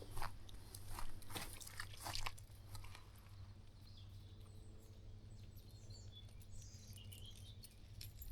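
A handful of crunching sounds on a dry countryside path in the first two seconds or so, then quiet with small birds chirping faintly, under a steady low rumble of wind.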